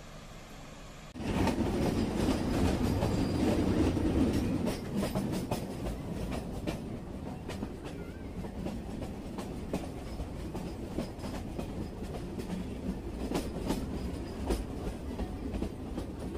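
Metre-gauge train running, with a steady rumble and wheels clicking over rail joints. It comes in suddenly about a second in and is loudest for the next few seconds, then settles into a steadier run with repeated clicks.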